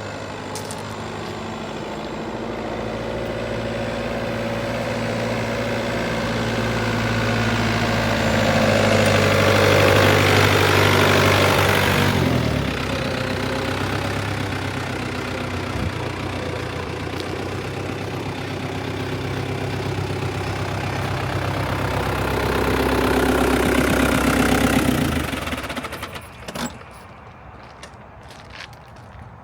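Four-cylinder farm tractor engine running as it is driven. It gets louder over the first ten seconds, drops back suddenly about twelve seconds in, rises again later, and falls away near the end.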